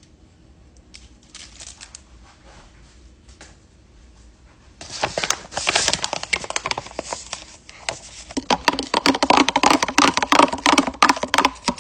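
A powdered drink being mixed in its container: a few faint clicks at first, then loud, dense rattling clicks from about five seconds in that keep going to the end.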